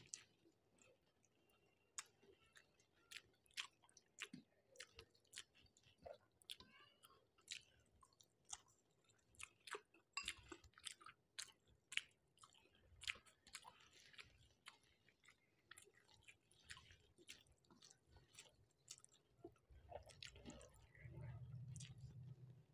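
Close-miked mouth sounds of a person eating rice with fish curry: quiet wet chewing and lip smacks with many short, irregular clicks. A low hum rises near the end.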